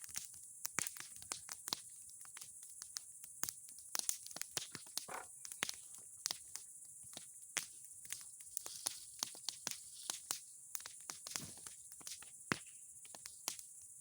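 Bonfire of old boards and pine cones crackling, with irregular sharp pops and snaps, some louder than others.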